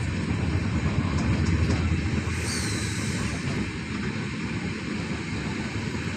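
Steady low rumble of a moving road vehicle heard from inside it, engine and tyre noise. About two and a half seconds in, a brief high whistle falls in pitch.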